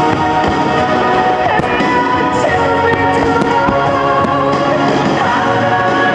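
Music for the fireworks display, with sustained melodic lines, and several sharp firework bangs and pops scattered over it.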